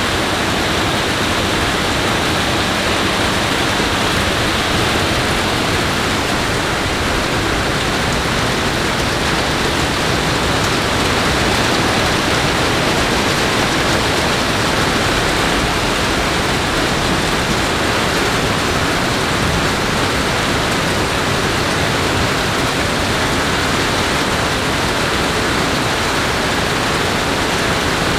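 Steady loud rush of water, an even hiss with no single drops or thunder standing out.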